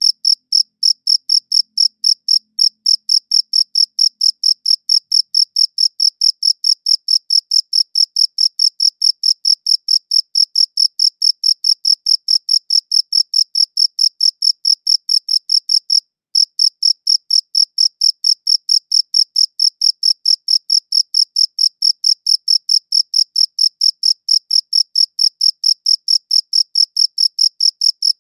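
A cricket chirping in a steady, evenly spaced rhythm of high chirps, broken once by a brief pause about 16 seconds in.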